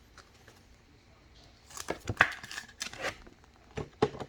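Trading card packs and cards being handled: crinkling and snapping of foil wrappers and card stock in a cluster about two seconds in, then two sharp clicks near the end.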